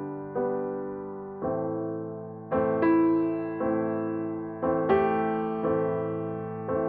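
Background music: slow solo piano, chords struck about once a second and left to ring and fade.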